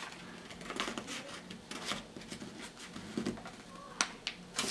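A paper airplane being folded and creased by hand: soft paper rustling, with a few sharp crinkles about four seconds in.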